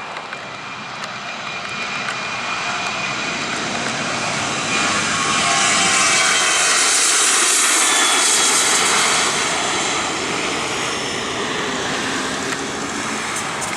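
Boeing 737-800's CFM56 turbofan engines at takeoff thrust going past: a jet roar and whine that builds to its loudest about six to nine seconds in, then falls away with the pitch dropping as the airliner passes.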